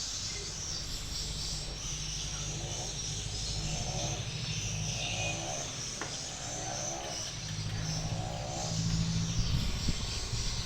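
A motor vehicle engine running steadily, under a constant high-pitched insect drone.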